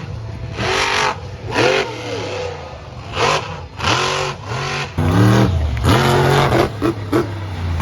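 Monster truck engine revving in repeated throttle blasts, its pitch rising and falling with each one.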